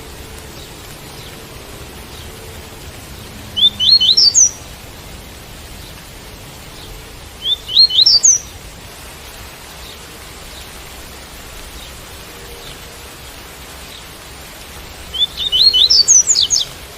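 Double-collared seedeater (coleiro) singing its 'tui-tui' song: three short phrases of quick rising notes, about four seconds in, about eight seconds in and near the end. Steady rain hiss runs beneath.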